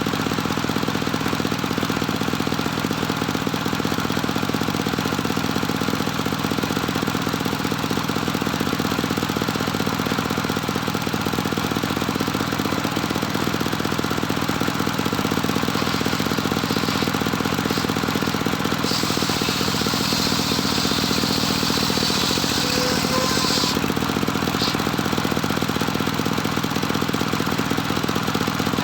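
Engine of a homemade circular sawmill running steadily. A higher hiss joins for about five seconds, from roughly two-thirds of the way in, as the blade cuts through a board.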